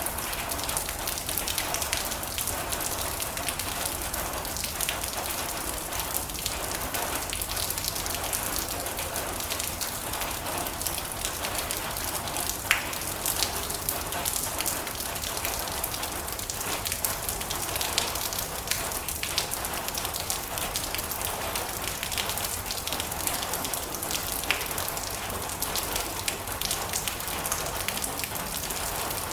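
Steady rain on a metal roof, an even hiss of many drops with scattered sharper ticks of single drops hitting the metal.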